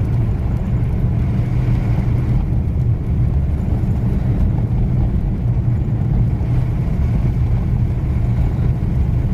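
Steady engine and tyre noise heard inside the cabin of a moving vehicle driving on snowy roads, a constant low drone.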